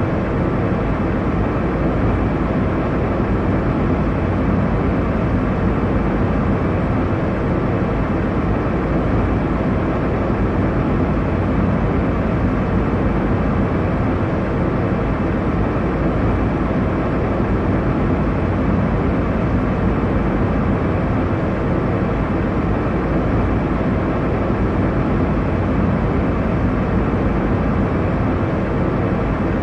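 Steady airliner cabin noise in cruise: an even, deep rushing of air and engine drone, heaviest in the low end and without any change.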